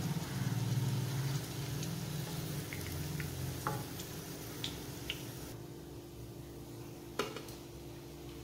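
Beetroot cutlets shallow-frying in hot oil in a pan, a soft steady sizzle, while a perforated metal spatula lifts them out with a few light clicks. The sizzle cuts off abruptly about five and a half seconds in.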